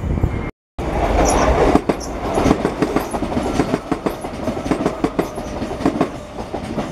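Southern electric multiple-unit train running along the line, its wheels clattering over rail joints and pointwork in a rapid run of clicks. The sound drops out for a moment about half a second in, then gradually eases off toward the end.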